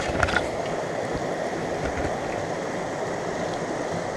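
Small mountain stream running steadily over rocks, with a couple of brief knocks or splashes right at the start.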